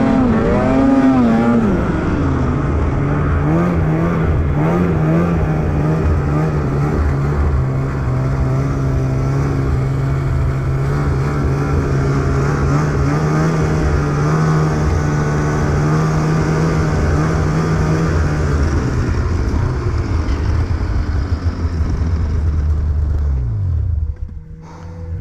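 Snowmobile engine running under throttle. The pitch wavers for the first couple of seconds, then holds steady for a long stretch. Near the end it falls as the sled slows, and it drops off sharply about 24 seconds in.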